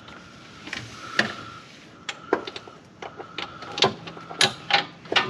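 Steel sockets and hand tools clinking and clattering in irregular knocks, with a short metallic ring on some, as a socket is picked out.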